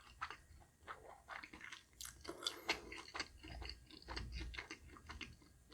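Close-up eating sounds of someone chewing fried egg noodles: soft wet mouth clicks and smacks at an irregular pace.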